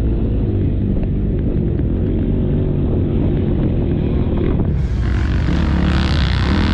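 KTM motocross bike's engine running as it is ridden, its pitch wavering with the throttle, with wind on the microphone. About five seconds in, a loud rushing hiss joins it.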